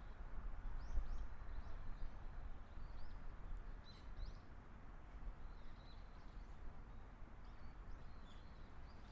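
Small birds chirping here and there in short high calls over a faint, steady background hiss and low rumble.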